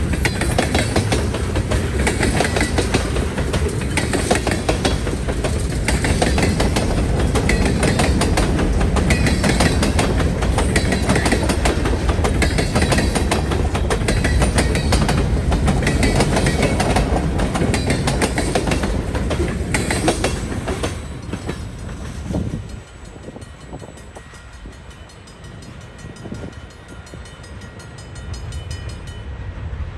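Norfolk Southern freight train rolling past close by, its steel wheels clattering steadily over the rail. About 22 s in the sound drops away sharply as the train moves off, leaving a much quieter passage with faint, evenly repeating high tones.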